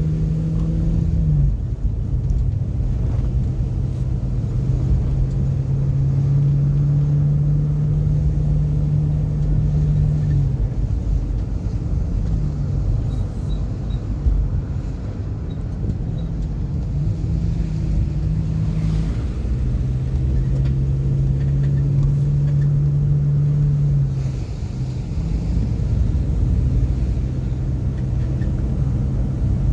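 Car engine humming over low road rumble while driving. The engine's pitch steps up and down several times as the speed changes.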